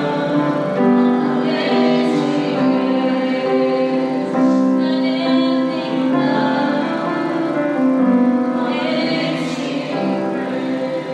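Congregational worship singing: a group of voices, women's voices prominent, singing a slow hymn in held notes over piano accompaniment.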